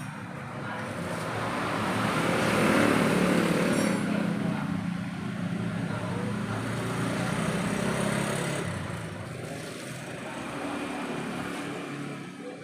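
Motorcycle engine running steadily, swelling louder about two to three seconds in and then easing back.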